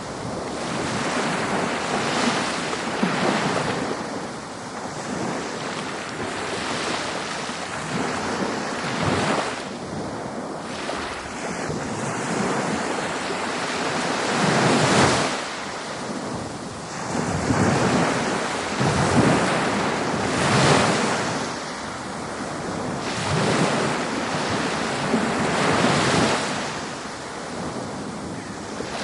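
Ocean waves breaking on a beach: a continuous wash of surf that swells and recedes every few seconds, with wind on the microphone.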